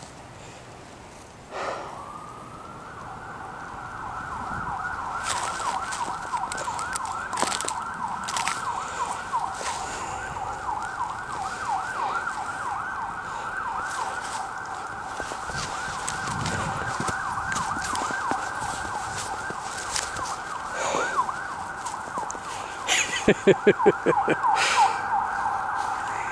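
An emergency vehicle siren wailing in quick up-and-down sweeps, starting about two seconds in and continuing. Near the end, a rapid run of about eight loud pulses.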